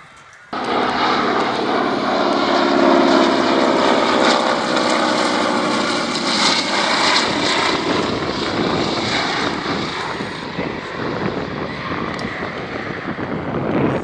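Fixed-wing aircraft engine noise from a display pass, loud and steady, cutting in abruptly about half a second in and easing off a little in the second half.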